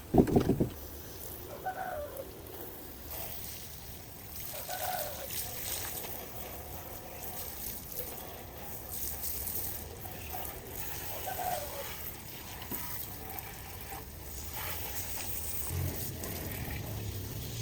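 Liquid trickling, with a loud knock at the very start and scattered small clicks.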